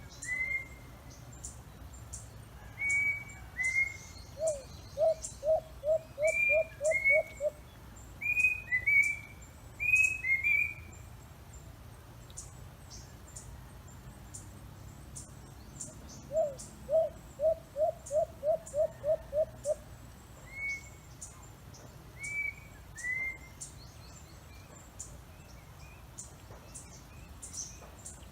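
Wild birds calling: a repeated pair of short whistled notes, answered twice by a fast run of about eight low, hoot-like notes.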